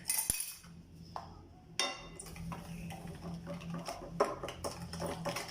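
A utensil clinking and scraping against a mixing bowl as cake batter is stirred, in short irregular knocks over a faint steady low hum.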